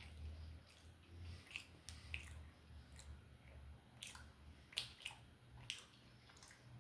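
Close-up chewing of food, with a few sharp wet mouth clicks spread through, over a low background hum.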